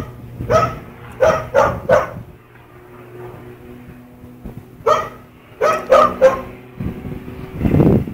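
A dog barking: about four quick barks in the first two seconds, then another run of about four between five and six and a half seconds in. A brief low rumble swells up near the end.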